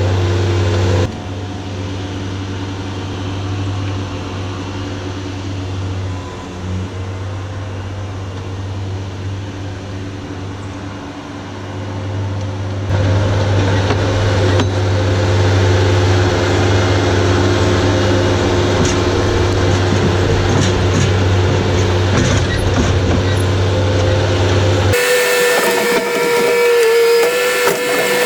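Skid steer's engine running steadily under load, a deep drone heard through several cut-together clips and louder in the middle stretch. About three seconds before the end it switches to a different sound with a high, wavering whine.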